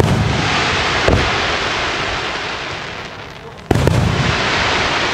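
Fireworks going off: aerial shells bursting with deep booms. There is one at the start, a smaller one about a second in, and a loud one about three-quarters of the way through, each followed by a long, fading hiss.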